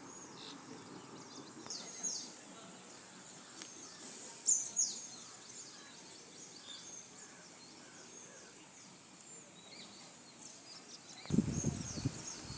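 Birds chirping with many short, high calls over a steady outdoor background noise. Near the end, a louder low rumbling noise comes in.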